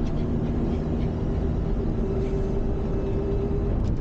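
Van driving along a road, heard from inside the cab: steady engine and road rumble with a steady hum.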